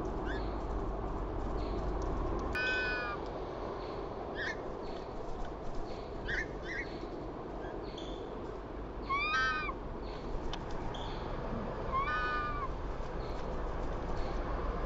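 Birds calling: four loud, nasal, arching calls a few seconds apart, with short high chirps between them.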